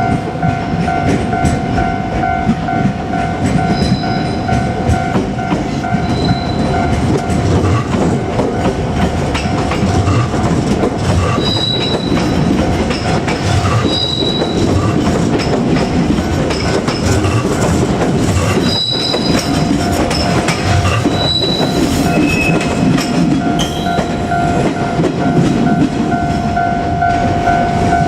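JR Kyushu 817 series electric train running past a level crossing: a steady rumble of wheels on rail with short, high wheel squeals every few seconds. The crossing's warning bell rings throughout, plainest at the start and again near the end.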